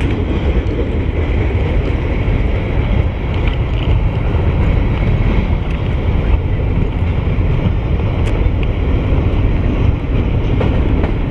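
Freight train rolling past at close range: a steady, loud low rumble mixed with wind buffeting the microphone.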